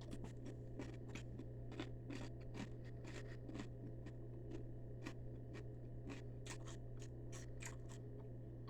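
A person chewing a mouthful of dry Reese's Puffs cereal: a quick, irregular run of small crunches, over a low steady hum.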